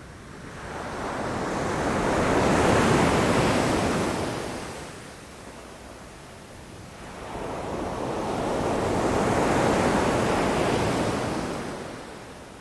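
Ocean waves crashing against rocks: two waves, each swelling up and washing back out, the first loudest about three seconds in and the second around ten seconds in.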